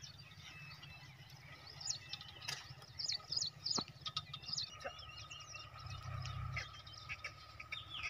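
Small birds chirping in quick, short calls, busiest in the middle of the stretch, over a steady low rumble; a thin steady tone joins about halfway.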